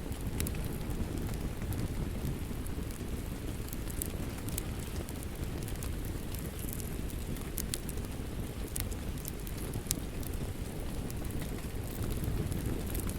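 Wood fire in a fireplace crackling, with a steady low rumble and irregular sharp pops and snaps.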